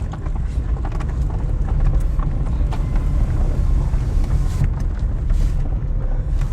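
Vehicle on the move: a steady low rumble with scattered small clicks and knocks.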